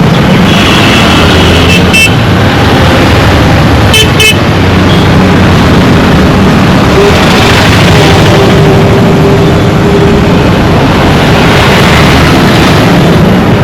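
Dense road traffic: a steady rumble of engines and tyres, with several short horn honks in the first few seconds.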